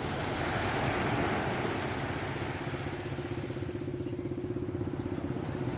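A small engine running steadily, with a rapid, even putter that becomes clearer about halfway through.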